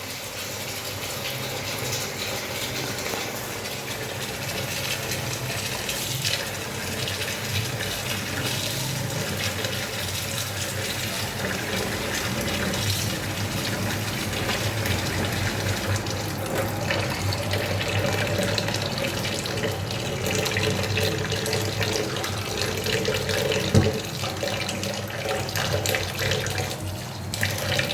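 Tap water running into a sink while raw chicken pieces are washed by hand, with small clatters and one sharper knock near the end.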